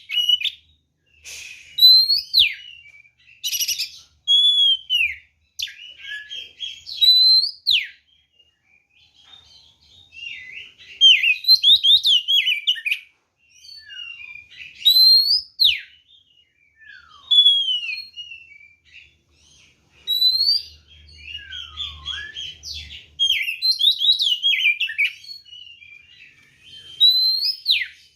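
Oriental magpie-robin (kacer) in full, aggressive song: loud phrases of rising and falling whistled notes mixed with rapid chatter, coming in bursts with short pauses between. This is the fighting song used to provoke other kacer into singing back.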